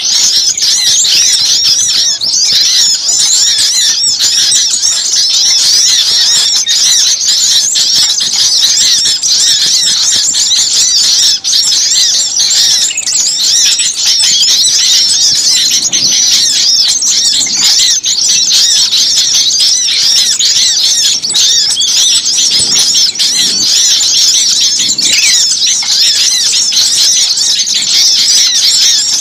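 Dense, unbroken chorus of rapid, high-pitched chirping calls from many small songbirds: a noisy small-bird lure recording of the kind played to draw small birds in.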